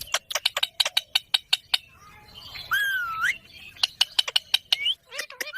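Indian ringneck parrot calling: a quick run of short, sharp chirps, then a single whistled note that dips and rises about halfway through, followed by more chirps.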